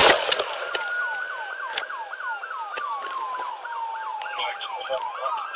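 Two police sirens sounding at once: one in a fast yelp of about three rising sweeps a second, the other a slow wail gliding down and back up. A sharp bang right at the start is the loudest sound, with a few fainter clicks after it.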